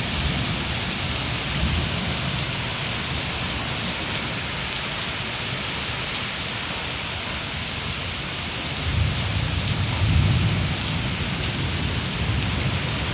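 Heavy rain falling steadily, an even hiss, with a low rumble that swells about nine seconds in and eases a couple of seconds later.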